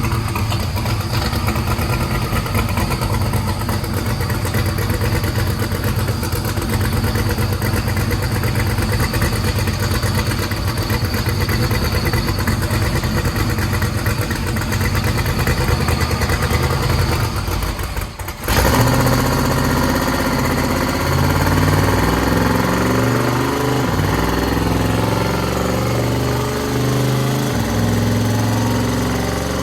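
Twin-turbocharged 427 LSX V8 in a Corvette Z06 running on a chassis dyno. It runs steadily at first, drops away briefly about two-thirds of the way in, then comes back louder with its pitch changing in steps.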